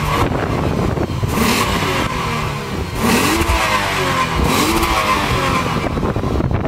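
2015 Lexus RC350 F-Sport's 3.5-litre V6 exhaust as the engine is revved in place. About three revs, each climbing and falling back, between a steady running note.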